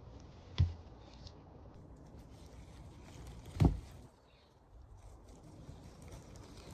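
Three dull thumps about three seconds apart, over a faint low rumble.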